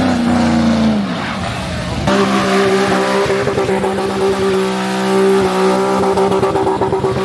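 Race car engine at high revs: its pitch drops about a second in, then from about two seconds in it is held at steady high revs.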